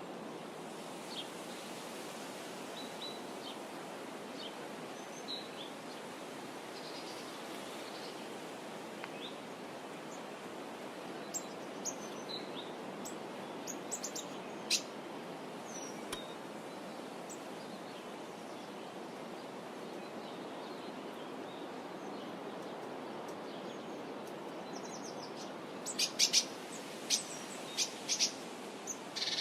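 Small birds chirping here and there over a steady outdoor hiss, with a quick run of sharper, louder chirps near the end.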